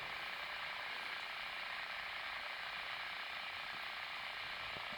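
Steady, even background hiss with no distinct sound events: room tone.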